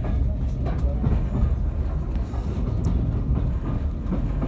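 Steady low rumble of a train in motion, heard from on board, with occasional faint clicks from the wheels and track.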